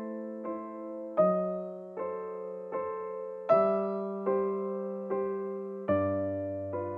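Soft background piano music: single notes and chords struck at an unhurried pace, each one fading away.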